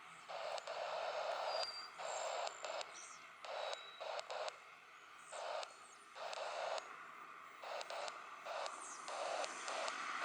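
Aviation radio receiver static: bursts of hiss that cut in and out abruptly, many times, with a few brief high-pitched tones.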